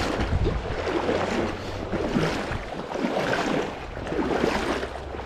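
Fast creek water rushing and splashing around the legs of someone wading across the current, swelling and easing unevenly.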